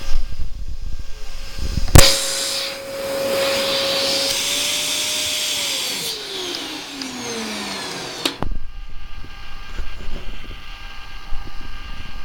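Vacuum cleaner switched on with a click about two seconds in, running with a steady motor whine and hiss, then winding down in a falling pitch before a click stops it.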